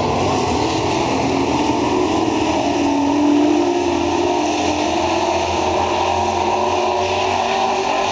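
Racing truck engines running hard as a field of dirt-track super trucks laps the oval, a steady din of several engines that swells briefly about three seconds in.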